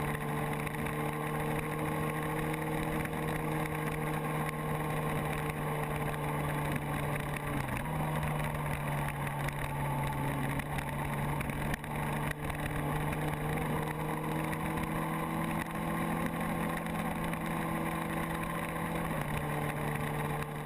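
Motorcycle engine running steadily at cruising speed, with wind rushing over the camera's microphone. The engine note dips briefly about eight seconds in and shifts again near the end.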